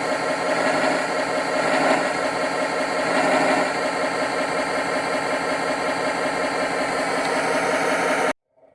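Simulated rough diesel idle from an RC scale truck's ESP32 engine-sound module, played through its onboard speaker. It runs steadily and evenly, then cuts off suddenly near the end.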